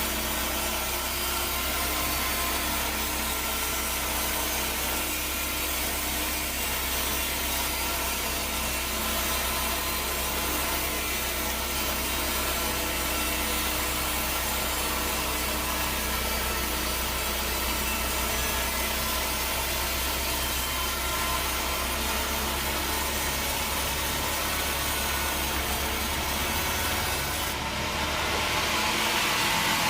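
Band sawmill cutting through a log: a steady hiss of the blade in the wood over a constant low machine hum. Near the end the sound shifts and grows a little louder and brighter.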